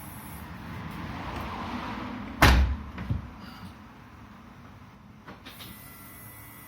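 Car door shutting with one heavy thump about two and a half seconds in, followed by a lighter knock.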